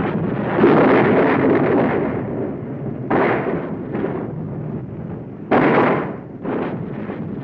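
Combat sound: gunfire and explosions over a continuous rumble, with sudden loud blasts about half a second in, around three seconds and around five and a half seconds.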